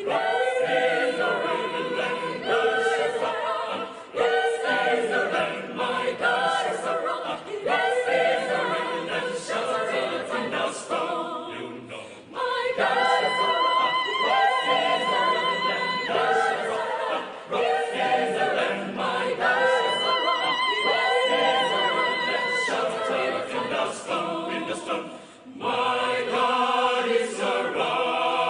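A choir singing a cappella in several parts, in phrases a few seconds long, with two long held chords with vibrato midway.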